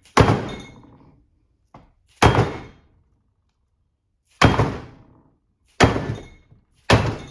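Five sharp, separate blows of a dead blow hammer on a seal puller, a second or two apart, each dying away quickly. They are driving the pinion seal out of a Toyota 8-inch rear differential.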